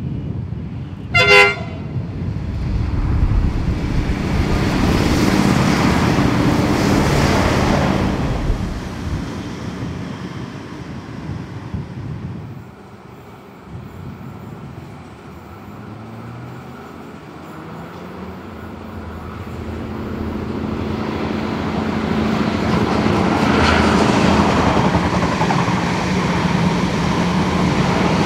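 V/Line Sprinter diesel railcar set sounds a short horn toot about a second in, then passes with engine and wheel noise that swells and fades. Later an XPT diesel passenger train approaches, its engine hum and rail noise growing steadily louder toward the end.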